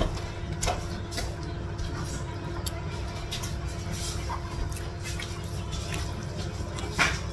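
Close-up eating sounds of someone chewing chicken rice eaten by hand: scattered wet mouth clicks and smacks, the sharpest about seven seconds in, over a steady low hum.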